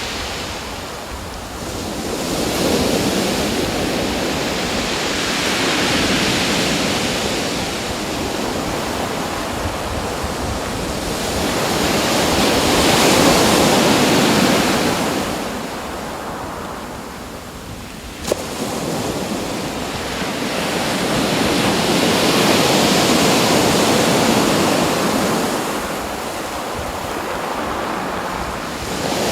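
Ocean surf: waves washing in and drawing back, a steady rush that swells and fades every several seconds. A single brief click comes partway through.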